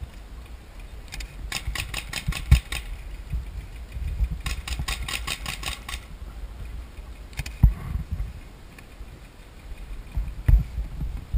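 Paintball markers firing two rapid strings of shots, about eight shots a second, with a few single shots after.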